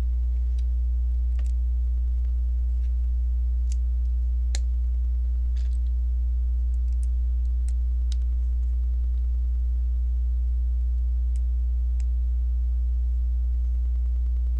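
Plastic LEGO pieces clicking and tapping as they are handled and pressed together: about a dozen sharp clicks spread through the first twelve seconds, the loudest about four and a half seconds in. A steady low electrical hum runs underneath and is the loudest sound throughout.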